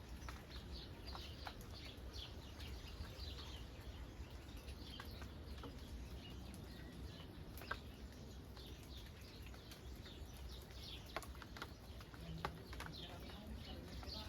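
Birds calling with many short, repeated chirps over a steady, faint patter of rain, with a few sharp drop ticks.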